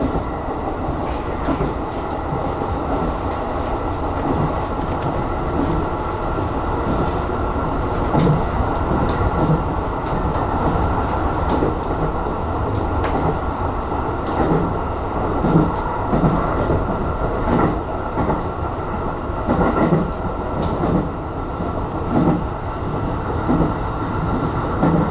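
Aonami Line electric commuter train running at speed, heard from inside the front car: a steady running noise with irregular wheel-on-rail knocks over the track.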